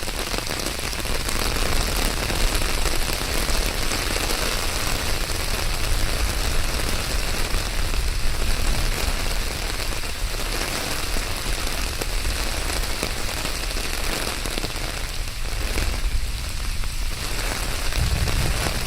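Steady rain falling, an even hiss over a low rumble, with a deeper low rumble building near the end.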